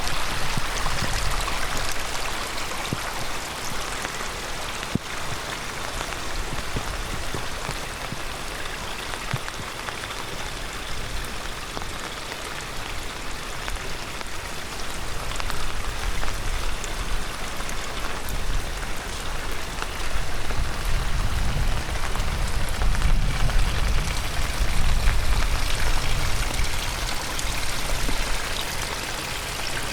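Heavy downpour, with many close raindrop hits over the rush of a swollen stream. A low rumble swells in the last third.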